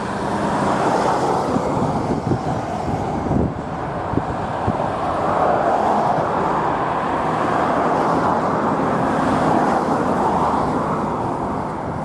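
Road traffic noise, with vehicles swelling past every few seconds, and wind buffeting the microphone.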